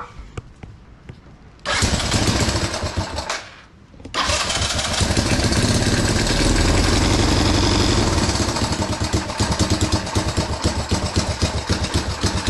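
Honda CT200 single-cylinder engine being started: a first burst about two seconds in that dies away after a second and a half, then it fires again about four seconds in and keeps running, settling into an evenly pulsing idle.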